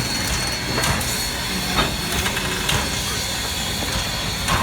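Steam locomotive standing with steam hissing steadily, a thin high tone running through it, and irregular clanks and knocks.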